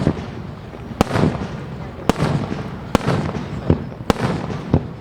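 Aerial firework shells bursting about once a second, five sharp bangs in all, each trailing off in a low rumble that runs on between them.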